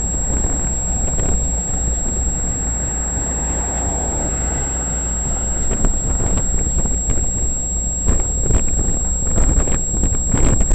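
Freight train cars rolling past on the rails with a steady low rumble, wind buffeting the microphone, and a few sharp clacks near the end.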